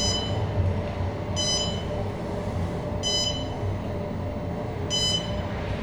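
Otis Gen2 elevator cab travelling down, a short electronic floor-passing beep sounding four times, about every one and a half to two seconds, over the steady hum of the moving cab.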